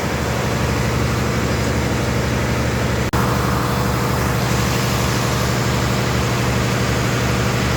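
A heavy engine or machine running steadily, giving a continuous low hum with a brief dropout about three seconds in.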